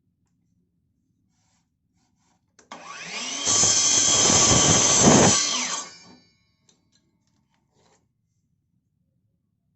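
Electric drill motor spinning up, running for about three seconds, then winding down and stopping.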